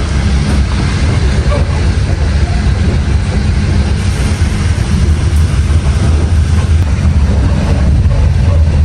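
Steady, loud rumble of a moving train, heavy in the low end.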